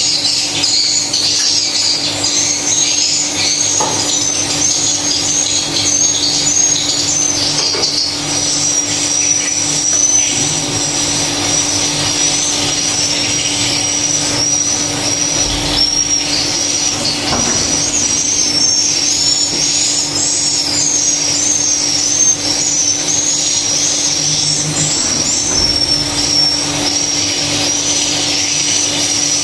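Dense, continuous high-pitched chittering of many swiftlets calling, with a steady low hum underneath.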